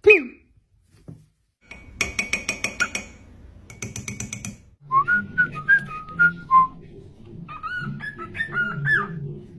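A parrot whistling: a falling whistle, then two short runs of rapid clicking, then a string of whistled notes that slide up and down.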